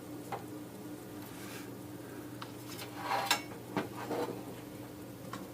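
A few scattered small clicks and taps from handling parts and tools during a repair, busiest about three seconds in, over a steady low electrical hum.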